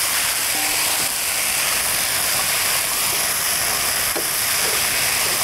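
Chopped sausage and vegetables sizzling in a hot frying pan: a steady, even hiss.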